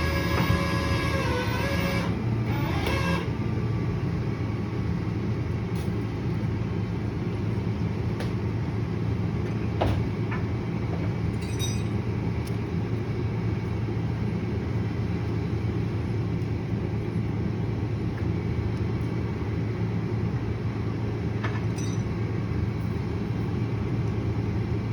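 Tow truck's engine running steadily, a low rumble, with a few light clanks over it. Near the start a higher whine steps down and fades out.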